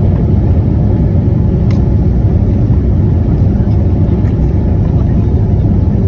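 Boeing 787-9 heard from inside the cabin during its takeoff, a loud, steady low rumble of engines and airframe.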